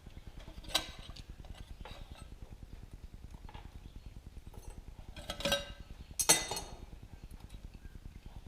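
Metal clinks and clatter of small metal parts and tools being handled while a cast iron stove is taken apart: one sharp clink about a second in, then two louder clattering clinks near the middle. A faint steady low hum runs underneath.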